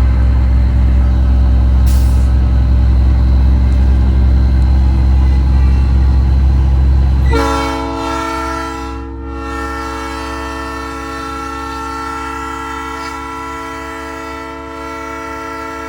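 Heavy low rumble of a big rig under way, then about seven seconds in a truck-mounted Nathan AirChime P3 train horn sounds one long, steady multi-note chord that holds to the end.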